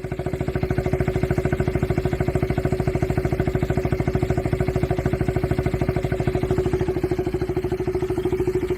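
KTM Duke 250 BS6's single-cylinder engine idling steadily through a Toce dual-outlet slip-on exhaust, with a fast, even pulsing.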